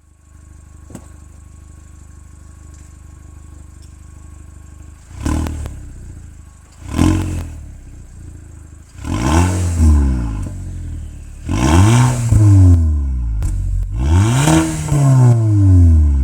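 Audi TT 8J 2.0 TFSI turbocharged four-cylinder idling through its stock exhaust, then revved in five throttle blips. The first two blips are short and the last three longer, the engine speed climbing and falling back to idle each time.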